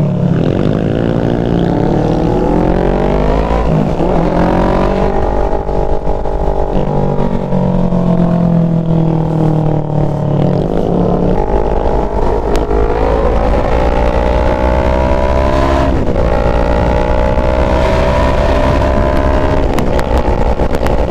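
CFMOTO NK400's parallel-twin engine under way, rising in pitch as it accelerates and dropping back sharply several times.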